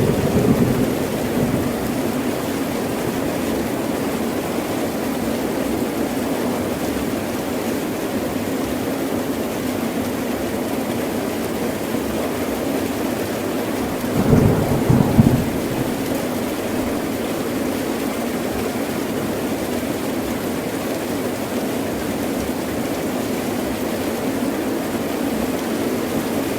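Heavy rain pouring steadily, with thunder rumbling twice: once as it begins and again about halfway through.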